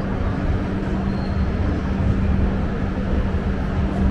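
Steady running rumble of a passenger train in motion, heard from on board, with a constant low hum.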